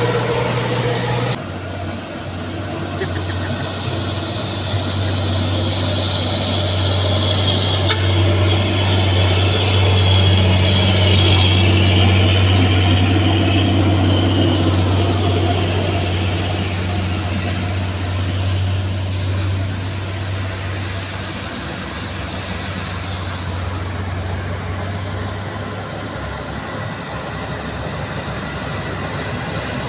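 Heavy truck's diesel engine labouring uphill under load, a steady low drone that grows louder toward the middle and then eases as the truck passes.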